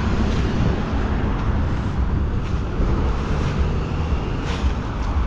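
Street traffic noise: a steady low rumble with no single event standing out.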